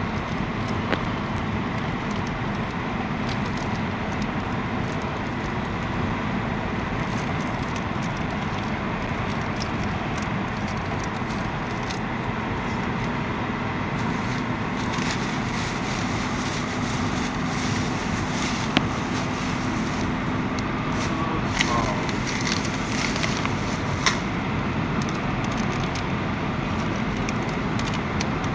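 Steady rumbling background noise like a car's road noise. Scattered light crackles and clicks come through over its middle part.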